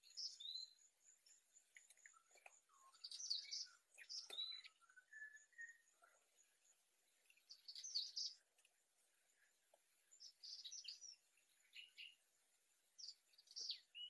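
Small birds chirping with short, high-pitched calls in scattered bursts, some quick and trilled, with quiet gaps between them.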